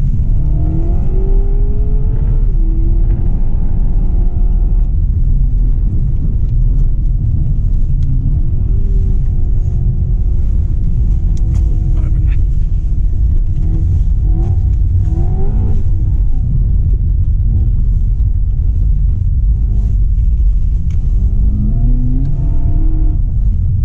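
Seat Leon Cupra 300 4Drive's 2.0-litre turbocharged four-cylinder heard from inside the cabin, its pitch climbing several times under acceleration and dropping at gear changes, with a short drop about two seconds in. Under it runs a heavy, constant low rumble from the studded winter tyres on ice, with a few sharp clicks in the middle.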